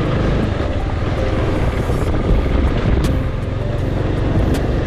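Motorcycle running at riding speed, a steady engine rumble mixed with wind buffeting the microphone.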